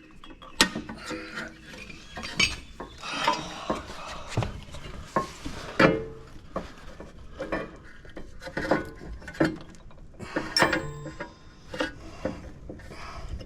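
Irregular metallic clinks, knocks and scraping as rear brake pads and their spring clips are worked into the caliper bracket, with a part that sticks and won't seat.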